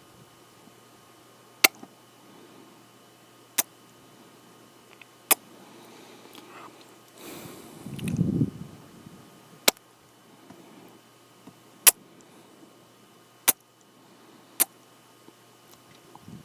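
Close-up kissing sounds into the microphone: a series of sharp, wet lip smacks, about one every one to two seconds. A longer, soft, low sound comes about halfway through.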